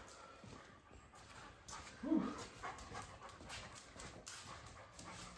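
A dog making a short vocal sound about two seconds in, among faint scattered clicks.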